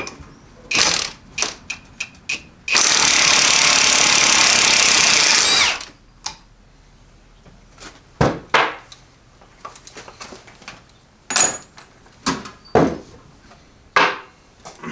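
Impact wrench hammering for about three seconds on a large nut through a loosely fitting socket, with metal tool clinks and clanks before and after.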